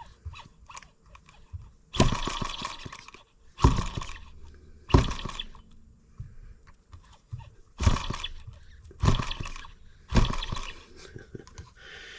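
M25 sideshaft model engine being started: it fires in short, irregular sputtering bursts, about six in twelve seconds, and never settles into a steady run. The engine is balky and hard to start.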